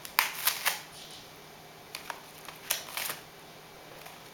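A parrot tearing and crinkling newspaper with its beak: a few short, sharp paper rips and crackles near the start and again a couple of seconds later.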